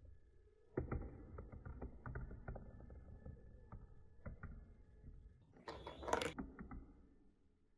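Marbles rolling and rattling along a plastic marble-run track for about six seconds, with many small clicks. A louder, brighter clatter comes near the end, then the sound stops.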